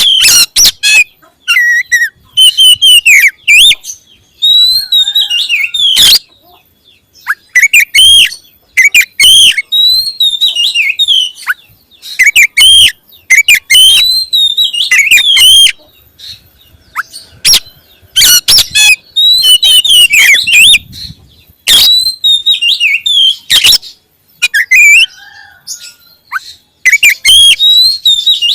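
Oriental magpie-robin (kacer) singing loudly, with varied whistled and warbled phrases in bursts of a second or two, broken by short pauses and mixed with sharp, loud notes.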